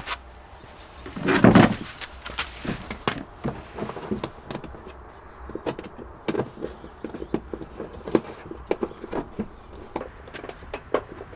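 Irregular clicks and knocks of hands working with tools or parts, with one louder thump about a second and a half in, over a low steady hum.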